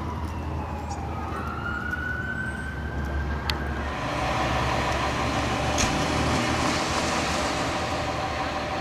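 Fire engine siren wailing, its pitch sweeping down and then up, breaking off about three and a half seconds in. The engine and road noise of the 2016 Pierce Enforcer pumper then grow louder.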